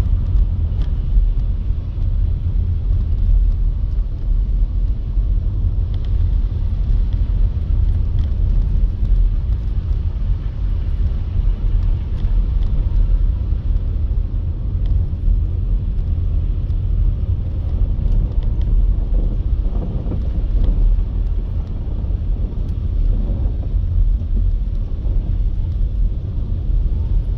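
A steady low rumble with a few faint, brief ticks over it.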